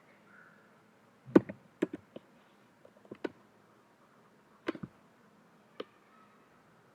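Computer keyboard and mouse clicks: about nine sharp clicks at irregular spacing, several in quick pairs, as an object is scaled in Blender.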